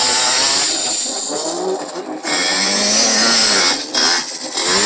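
Two-stroke 65 cc youth motocross bikes running hard, their engine pitch rising and falling with the throttle, with brief drops as the throttle is shut about two seconds in and again near the end.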